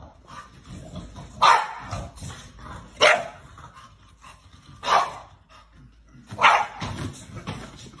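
A dog barking four times, spaced about a second and a half apart.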